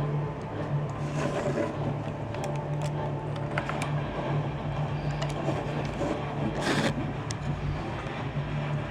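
Plastic LEGO pieces clicking and scraping as a rocket rack is handled and slid in and out of its hatch, with a brief scrape about seven seconds in, over a steady low hum.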